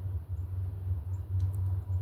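Faint, short, high bird chip notes, several in quick succession, over a steady low rumble that is louder than the chips.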